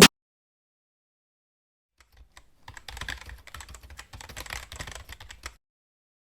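A quick, uneven run of light clicks and crackles lasting about three seconds, starting between two and three seconds in.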